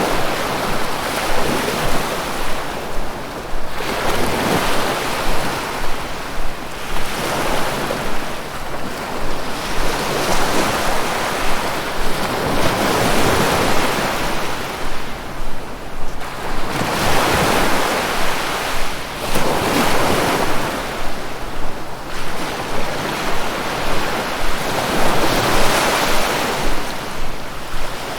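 Ocean waves breaking and washing in, swelling and fading about every four to five seconds.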